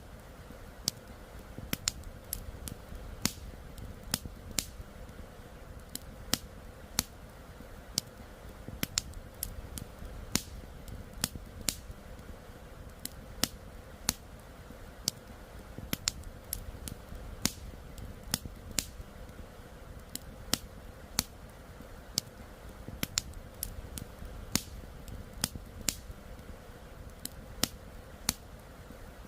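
Wood campfire crackling, with sharp irregular pops about one to two a second over a steady low rush of flowing river water.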